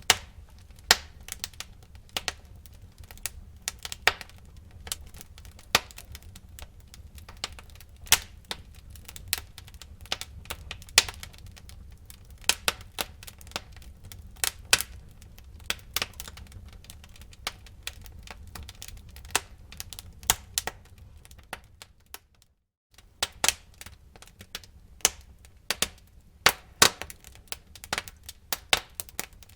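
Wood fire burning in a fireplace: irregular crackles and sharp pops from the burning logs over a steady low rumble of the flames. About three quarters of the way through, the sound drops out for half a second.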